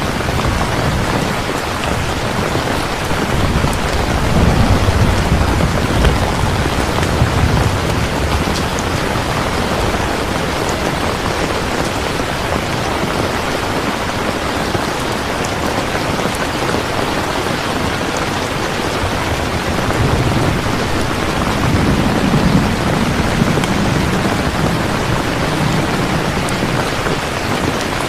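Steady, heavy rain falling, with two low rumbles of distant thunder, a few seconds in and again after about twenty seconds.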